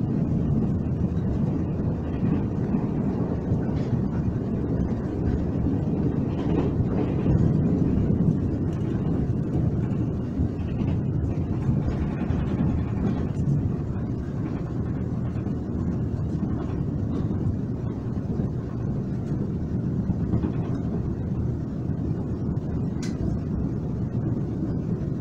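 Steady low rumble of a Taiwan Railways express train running, heard from inside the passenger car: wheel and rail noise with a few faint clicks, easing slightly about ten seconds in.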